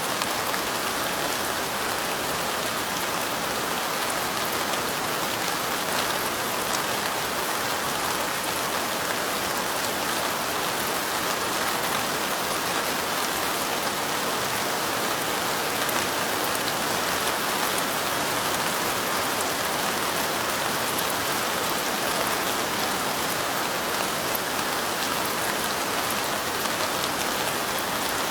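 Steady rain falling, an even dense patter with scattered sharper drop ticks, unchanging throughout.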